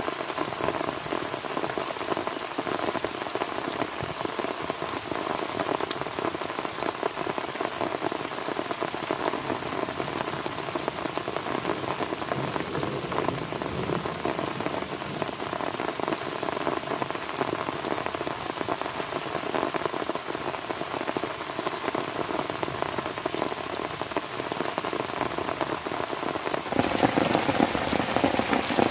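Heavy rain falling on a plastic tarp shelter, a dense steady patter that turns louder about two seconds before the end.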